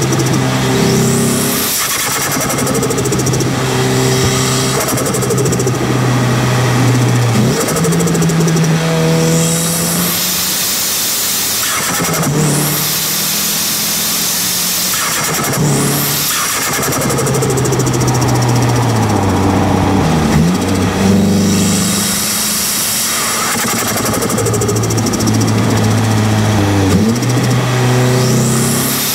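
Nissan Silvia S15's turbocharged SR20 engine and T28 turbo heard from right at the turbo while driving. Over several pulls a high turbo whistle climbs and falls away, the engine note steps between gears, and each lift-off brings the turbo flutter (compressor surge) on the throttle lift.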